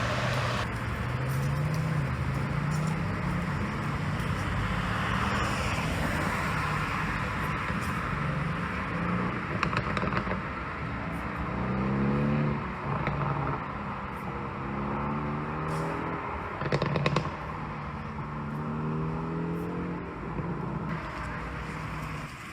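Mercedes-AMG GT C Roadster's twin-turbo V8 running under way, its note rising and falling with the throttle, with a couple of rising pulls. A few short sharp pops from the pop-and-crackle exhaust tune break in, the loudest about 17 seconds in.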